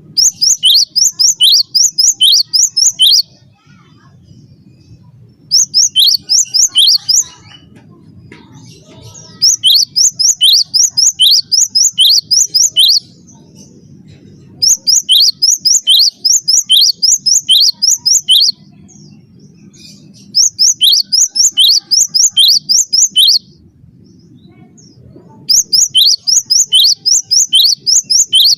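Gelatik batu (cinereous tit) singing: bouts of sharp, high notes that slide down in pitch, about three notes a second. Each bout lasts two to four seconds, with pauses of a second or two between; six bouts in all.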